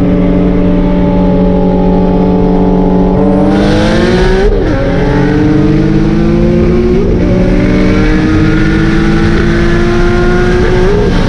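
Single-turbo Nissan 350Z's VQ35HR V6 engine, holding a steady note and then accelerating hard from about three seconds in. The pitch climbs, dips briefly at a gear change about four and a half seconds in, then rises slowly and steadily under load for the rest of the pull.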